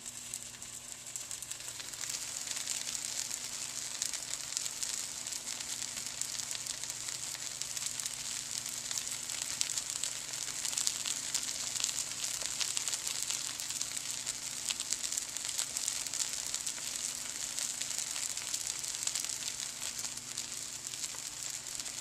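Pieces of veal brain frying in shallow oil in a skillet: a steady sizzle, full of fine crackling pops.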